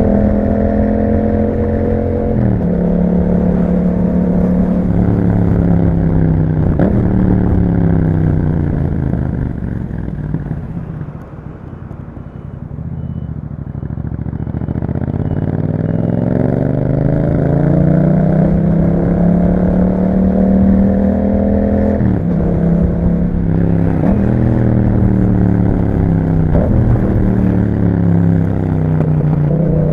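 Yamaha MT-07's 689 cc parallel-twin running through an Akrapovic exhaust while riding. It shifts up quickly several times early on, then rolls off and slows with the engine note falling. From about 12 seconds it pulls hard with a steadily rising note, and it shifts up again three times near the end.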